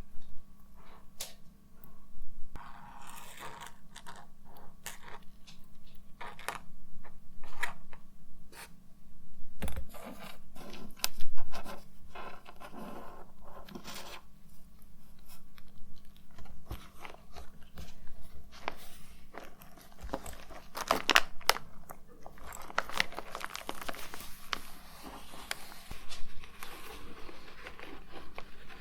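Cosmetics and their cases and packaging being handled and rummaged through: irregular clicks, taps and scrapes, with spells of rustling and crinkling.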